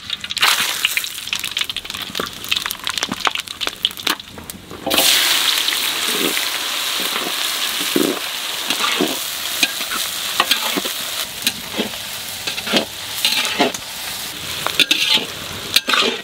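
Oil sizzling in a large aluminium kadai as whole spices and sliced onions fry, with a long metal spatula scraping and knocking against the pan. The sizzle gets clearly louder about five seconds in.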